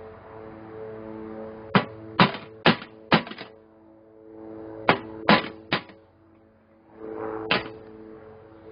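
Sharp knocks in three groups, four, then three, then a single one, from tool work on a steel ammo can, over steady background music.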